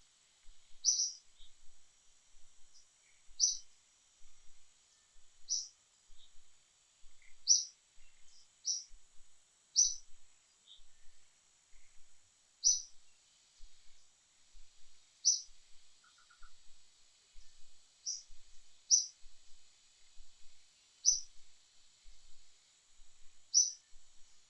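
A bird chirping: short, sharp, high chirps repeated about every one to two seconds, over a steady faint high hiss.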